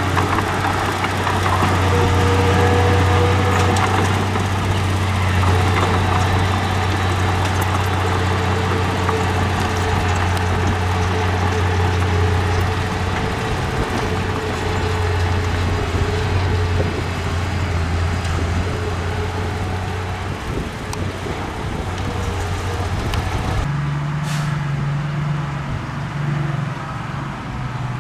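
Heavy diesel construction machinery running steadily with a low, even drone and scattered light clanks. About four-fifths of the way in, the engine note shifts abruptly higher and the background hiss drops away.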